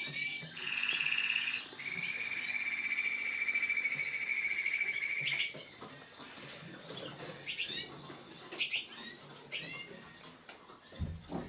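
Red melanin canary singing: a long, fast rolling trill held on one pitch for about five seconds, then a run of shorter, quieter chirps and up-and-down notes.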